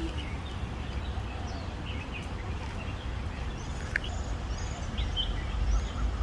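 Birds chirping and calling: many short high chirps and arching notes scattered through, with one sharp louder note about four seconds in, over a steady low background rumble.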